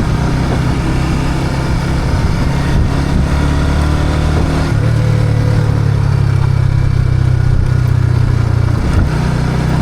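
Motorcycle engine running steadily while riding, its note shifting with the throttle about halfway through and dipping briefly near the end.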